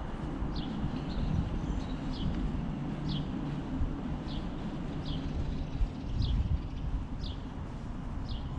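A bird repeating a short, high, downward-slurred chirp about once a second, over a steady low rumble.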